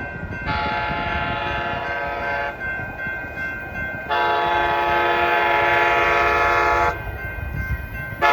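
Horn of an Amtrak Capitol Corridor train's leading cab car sounding two long chord blasts for the grade crossing, the second longer, over the rumble of the approaching train.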